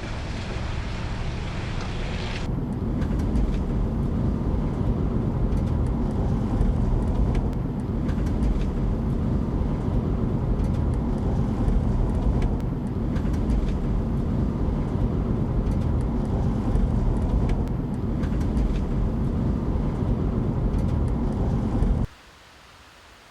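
Car road noise heard while driving: a steady low rumble of tyres and engine with occasional faint clicks, cutting off suddenly near the end.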